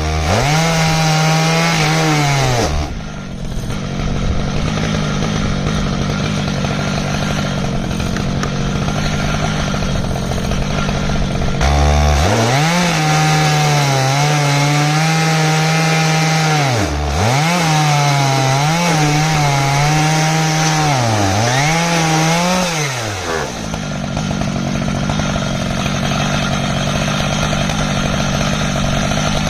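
Stihl MS 881 two-stroke chainsaw running at high revs while ripping an ash log on an Alaskan chainsaw mill. Its pitch dips and recovers several times as the cut loads it, with a rougher, noisier stretch between about 3 and 12 seconds and again near the end.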